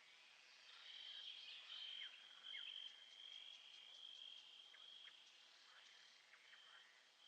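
Faint nature ambience: insects trilling steadily, with scattered short chirps and clicks from other small animals. The trill grows louder about a second in and eases off after about five seconds.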